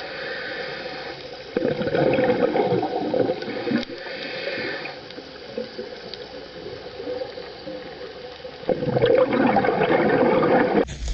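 Water flowing and splashing in uneven surges, loudest from about a second and a half to four seconds in and again from about nine seconds in.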